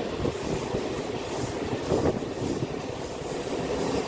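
Electric local train running along the track, heard from inside the coach: continuous wheel-on-rail noise.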